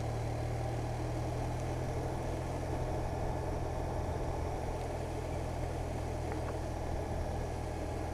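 Motorcycle engine running at a steady pace while riding, a constant low drone under an even rush of road and wind noise.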